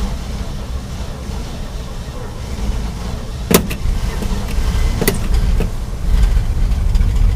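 Chevy 283 small-block V8 in a 1968 Chevy C60 truck on a hard cold start after priming, cranking and sputtering with two sharp pops about three and a half and five seconds in. It runs louder near the end as it begins to catch.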